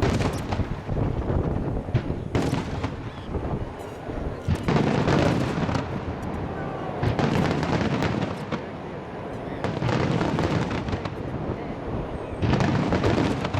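Starmine fireworks barrage: a rapid run of shell bursts and booms with crackling, coming in several loud waves.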